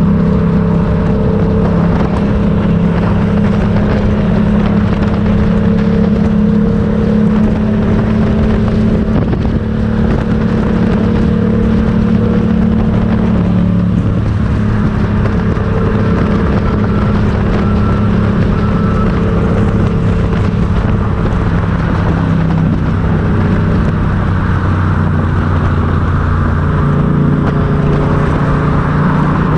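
Motorcycle engine running steadily while riding, its note shifting a little now and then, over a constant rush of road noise.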